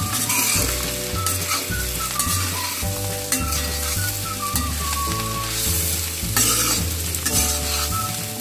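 Pieces of boiled liver frying in hot coconut oil in a kadai, sizzling steadily as they are stirred, with the stirring coming and going in uneven strokes.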